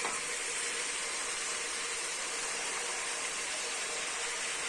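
Beef, onions and freshly added carrots sizzling steadily as they fry in the pan for plov.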